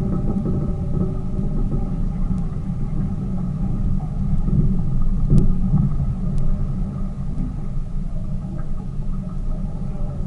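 Tour boat's engine running steadily under way: a low, even rumble with a faint steady hum above it.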